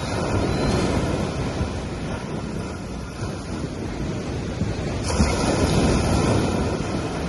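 Sea waves washing onto a beach: a steady rush of surf that swells twice, just after the start and again more strongly about five seconds in.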